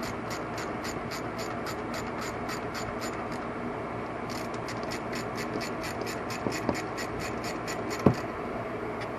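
Hand ratchet on a 1/4-inch drive clicking evenly, about five clicks a second, in two runs with a short pause between, as bolts are run down snug. A single knock near the end.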